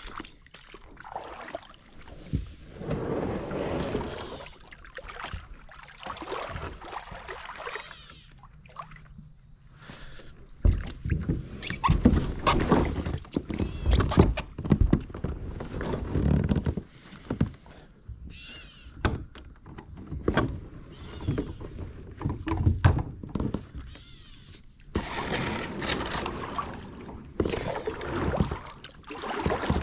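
Kayak being handled and paddled on the water: irregular knocks and thumps against the hull with paddle splashes, loudest in a cluster of knocks midway through.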